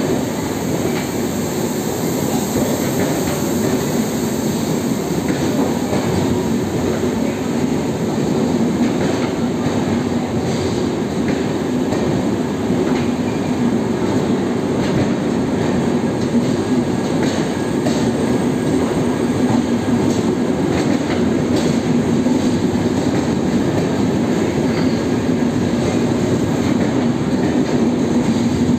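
Passenger train coaches rolling steadily past along the platform: a continuous rumble of wheels on rail, with occasional clicks as the wheels cross rail joints.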